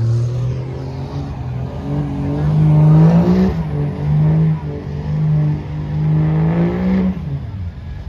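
A truck engine revved hard, its pitch climbing and held high in several pulls with short dips between them, then dropping back near the end.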